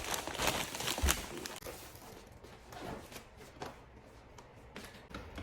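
Groceries being handled and put away: faint rustling, clicks and knocks of bags and items being moved and set down, with a dull thump about a second in.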